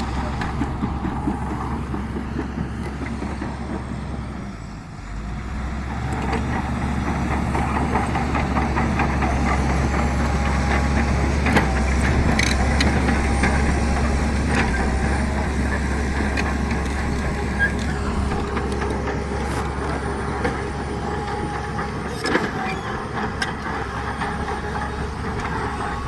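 Heavy diesel earthmoving machinery running steadily, with occasional sharp metallic clanks. The engine dips briefly about five seconds in, then runs louder.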